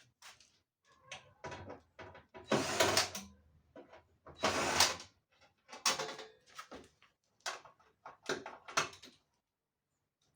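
Irregular knocks, clatters and scrapes of parts being handled, with two longer, louder scrapes about two and a half and four and a half seconds in.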